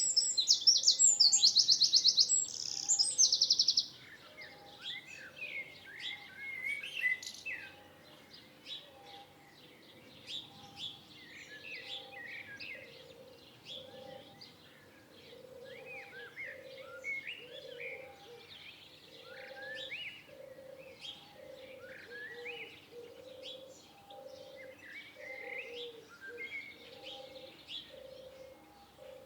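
Wild birds singing and chirping: one bird gives a loud, rapid high trill for the first four seconds, then many birds chirp in short, scattered calls. Under them a low call repeats at an even pace, becoming more prominent partway through.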